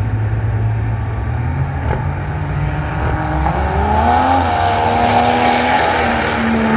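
Drag-racing truck engine running with a low rumble, then from about three seconds in its note rises as it accelerates and stays high to the end.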